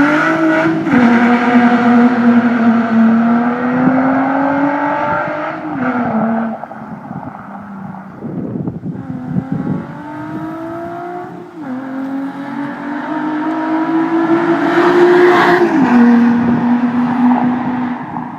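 Nissan 350Z's 3.5-litre V6 through a prototype chambered exhaust, pulling hard under acceleration. Its pitch climbs steadily and then drops abruptly at each upshift, several times, with a quieter, rougher stretch about a third of the way through.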